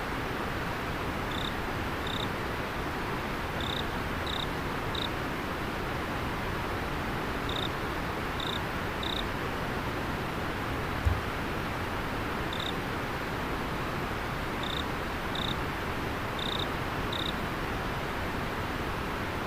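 Steady rush of river water with short, high insect chirps coming singly and in twos and threes, and one brief low thump about eleven seconds in.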